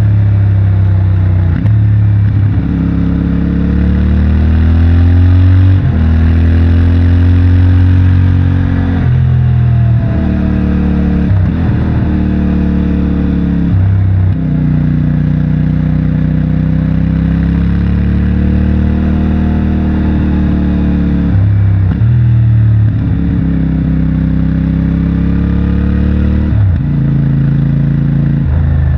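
CFMOTO 450MT's 449 cc parallel-twin engine and stock exhaust under way. The engine note rises and falls in pitch with the throttle, broken several times by abrupt changes in the note.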